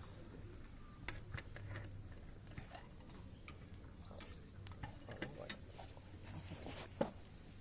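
Small wood fire of zelkova and willow branches crackling, with scattered irregular pops and one sharper pop near the end.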